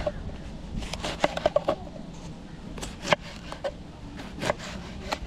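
Irregular sharp knocks and taps, several close together about a second in, then single ones every half second to a second, over a low steady background.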